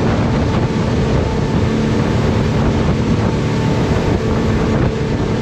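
Jet boat under way, its engine running with a steady drone, with wind buffeting the microphone.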